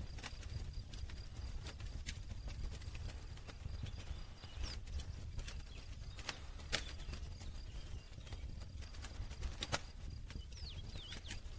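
Campfire burning with irregular wood crackles and sharp pops over a low steady rumble of the flames, with two louder pops in the second half.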